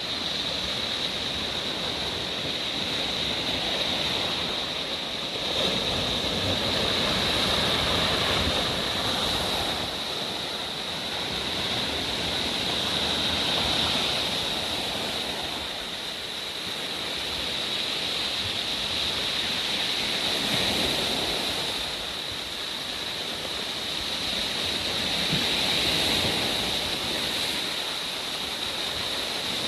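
Sea surf washing onto the shore, a steady rush that swells and eases every several seconds, with a steady high hiss over it.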